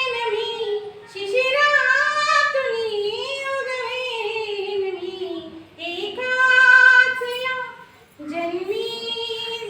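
A woman singing a song solo with no accompaniment, in phrases broken by short breaths. Her loudest moment is a long held note in the middle.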